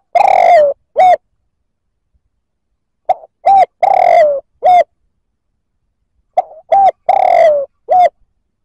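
Spotted dove cooing loudly, repeating the same phrase about every three seconds: each phrase is a quick short coo, a longer coo that falls at its end, and a clipped final coo. One phrase is just ending at the start, and two full phrases follow.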